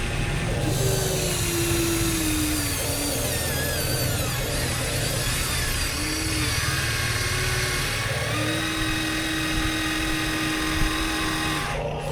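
Electric motors and gearboxes of Huina 1:14-scale RC construction machines whining steadily, the pitch gliding up and down as the machines are worked.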